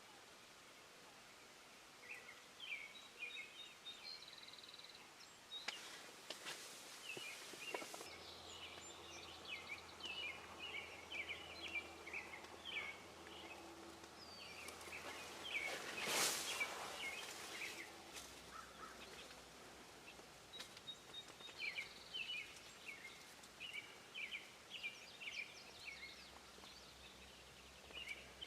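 Small birds chirping over and over in quick short high notes, with a few brief thin whistles. A short rush of noise, the loudest sound, about sixteen seconds in.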